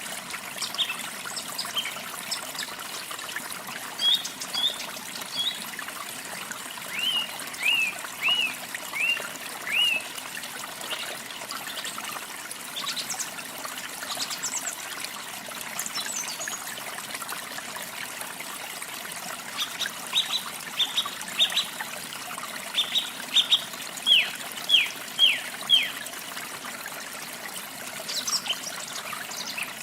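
Songbirds chirping over steadily trickling water. The birds give runs of short, falling notes, one run about four seconds in and a longer one past the middle, with scattered higher chirps in between.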